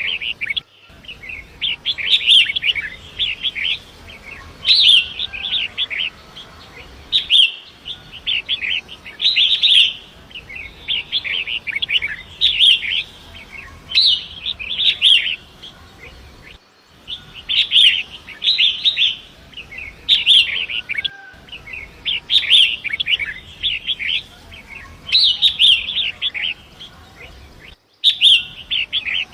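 Long-tailed shrike (pentet) singing in bursts of fast chattering phrases about every two seconds, over a faint steady rush of river water.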